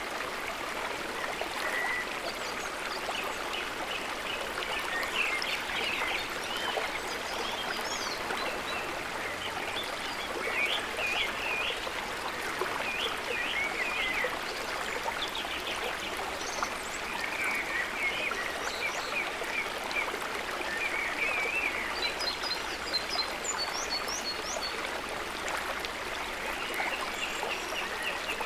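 River water running steadily. Bursts of short, high chirping calls come every few seconds.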